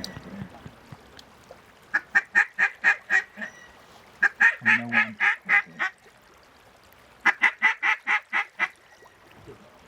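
Mallard duck call blown in three quick strings of loud quacks, each string six to eight notes at about five a second, calling to circling ducks.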